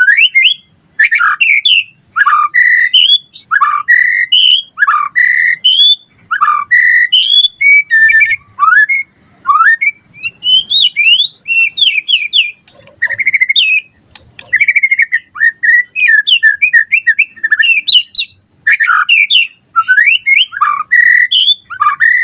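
A white-rumped shama (murai batu) singing continuously in a loud, varied run of short whistled phrases, many sweeping up or down in pitch, with brief pauses between them.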